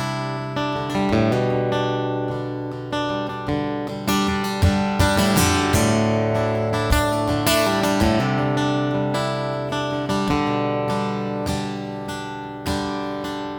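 Acoustic guitar playing a strummed instrumental intro, steady chords with a regular strum.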